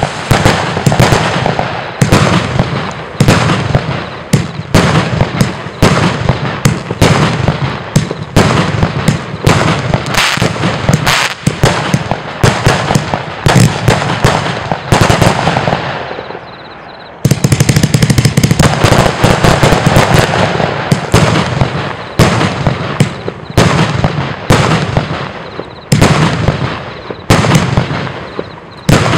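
Geisha Devils Dynamite 259-shot fireworks compound firing rapid, near-continuous volleys of shots and bursts. About sixteen seconds in it dies down to a fading hiss, then starts again abruptly a second or so later.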